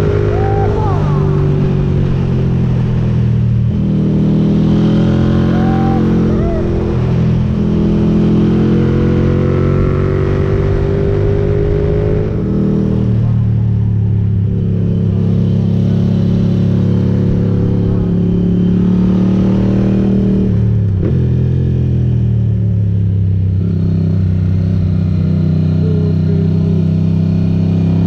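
Ducati GT1000's air-cooled V-twin engine through Termignoni exhausts, pulling hard under load. Its pitch climbs steadily through each gear and drops back at the shifts, three times.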